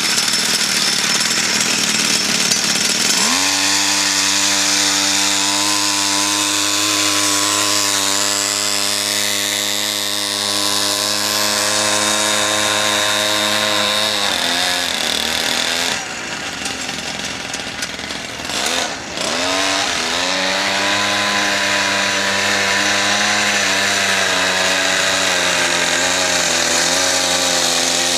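Two-stroke chainsaw engine on a home-built minibike running loudly at a steady speed. About halfway it eases off for a few seconds with a short rev, then settles back to a steady speed.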